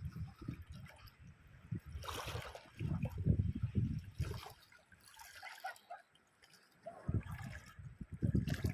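Small waves of a calm sea lapping and splashing at the water's edge, with several short splashes between spells of low, uneven rumbling.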